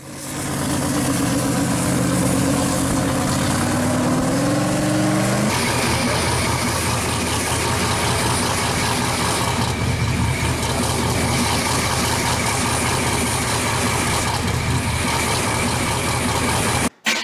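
Pro street 1969 Camaro Z28's injected V8 idling, its pitch rising briefly about four seconds in, then running steadily.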